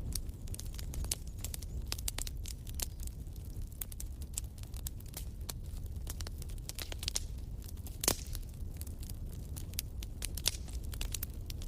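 Wood fire in a fireplace crackling, with irregular sharp pops and snaps over a low steady rumble of the flames; one louder pop about eight seconds in.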